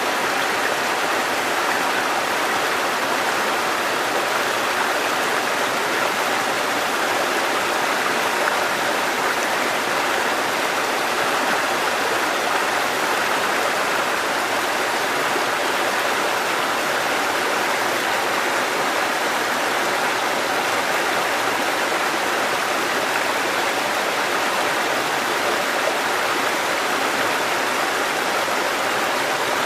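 Water cascading over rocks in a mountain stream, a steady, unbroken rush.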